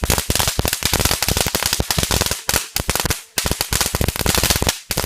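Two strings of firecrackers going off together in a rapid, continuous run of sharp bangs, with a few short gaps.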